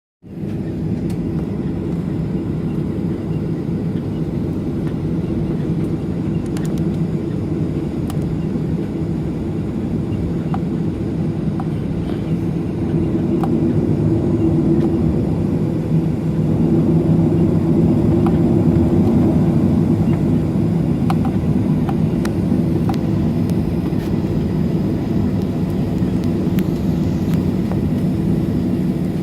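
Boeing 737-800's CFM56-7B jet engines at low thrust, heard inside the cabin as a steady rumble and hum that grows a little louder about 13 and 16 seconds in.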